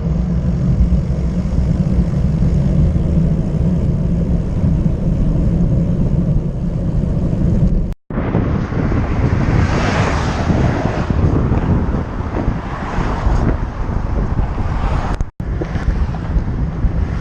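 Wind buffeting the microphone on a moving bicycle: a loud, steady, deep rumble with some hiss, broken off sharply twice for a split second.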